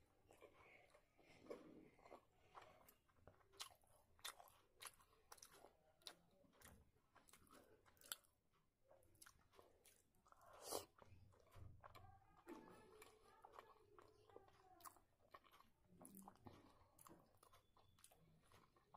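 Quiet close-up eating sounds: a run of short wet lip smacks and mouth clicks while chewing. About eleven seconds in there is a louder wet bite as a syrup-soaked sweet goes into the mouth.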